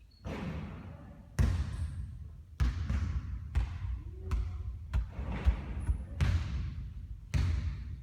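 A basketball bouncing on a court: a string of sharp, irregular impacts, roughly one every half second to a second, each with a short ring after it.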